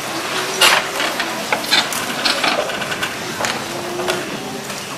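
Scattered sharp clicks, knocks and rustling of a seated audience and stage, irregular, over a low hubbub of the hall.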